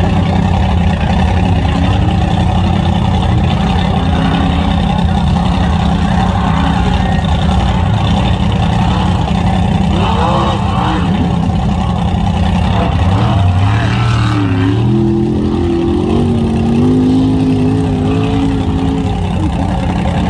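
Large mega truck engine running loudly and steadily.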